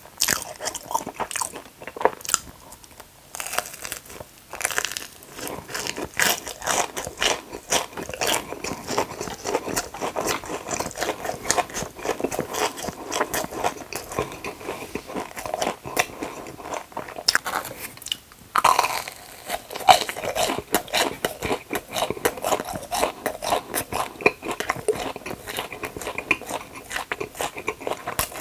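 Close-miked biting and chewing of crunchy food: dense, irregular crisp crunches, with short pauses about three seconds in and again past halfway.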